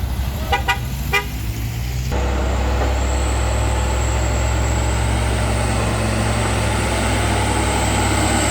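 Three short vehicle horn toots in the first second or so, then a vehicle engine running steadily and close from about two seconds in, with a faint high whine over it.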